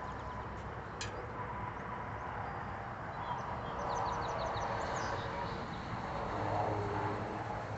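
Outdoor ambience: a steady hum of distant road traffic. A few quick, high bird chirps come about four to five seconds in, and there is a single sharp click about a second in.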